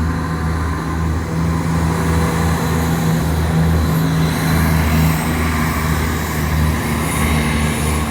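Class 170 Turbostar diesel multiple unit running its underfloor diesel engines as it gets ready to depart. It makes a steady, deep drone that swells a little midway.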